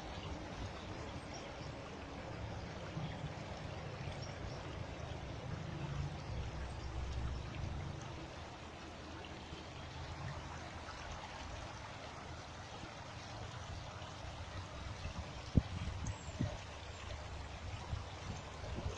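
A small woodland stream running steadily, its water rushing and trickling. A couple of light knocks come near the end.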